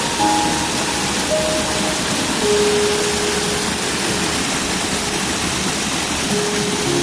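Steady rush of a waterfall, with a slow melody of long held notes over it.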